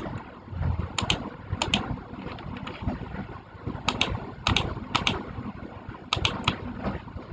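Sharp clicks, mostly in quick pairs, repeated every second or so over a steady low rumble: keys or buttons being pressed.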